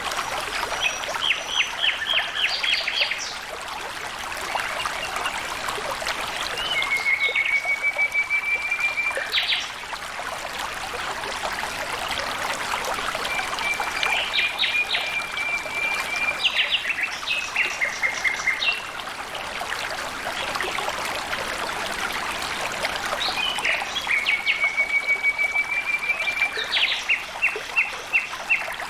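Water flowing over stones in a stream, a steady rush, with a songbird singing four times over it: each song a quick series of notes and a level trill.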